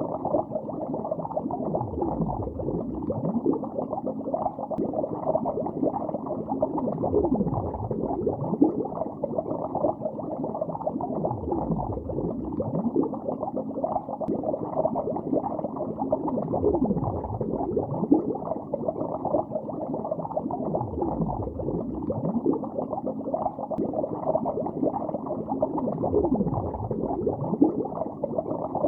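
Water bubbling underwater, a continuous muffled stream of many small bubble sounds that rise and fall in pitch, with no pauses.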